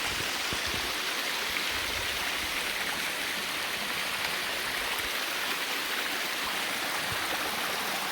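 Steady rushing of water flowing and falling over rocks in a creek cascade.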